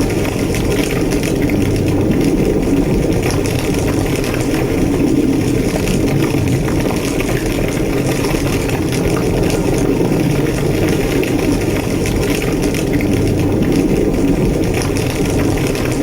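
A large structure fire burning with a steady, loud roar and continual crackling.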